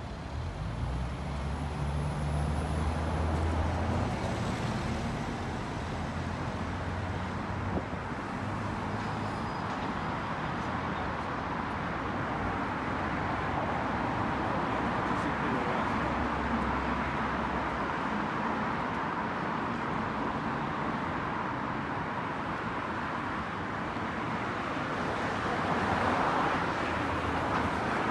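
Road traffic: motor vehicles running and passing, with steady tyre and road noise and a low engine rumble that comes and goes, swelling a little near the end.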